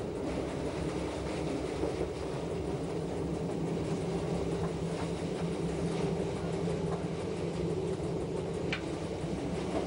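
Metre-gauge electric train running along the track: a steady hum with the noise of wheels on rails.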